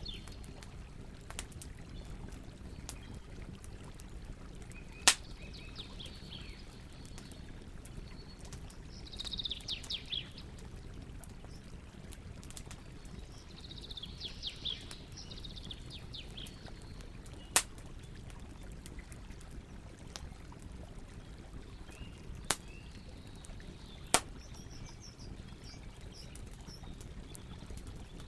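Campfire crackling, with four sharp pops standing out, over a steady low rush of river water. Birds chirp in short bursts several times.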